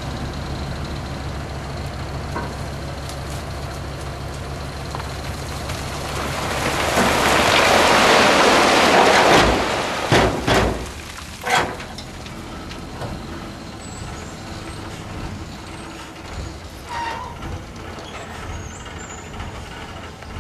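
Heavy truck engine running steadily, then a loud rushing noise that swells for about three seconds and ends in a few sharp knocks about ten to twelve seconds in, before the engine carries on more quietly.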